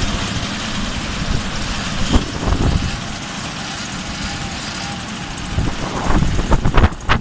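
Small moped engines running and idling in a group line-up, with several loud sharp thumps near the end.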